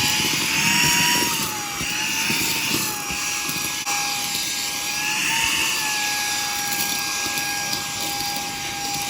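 Saker 3-in-1 cordless handheld mini vacuum running with its long flat crevice attachment: a steady high-pitched brushless-motor whine over rushing air, the pitch dipping and recovering slightly a few times as the suction load changes.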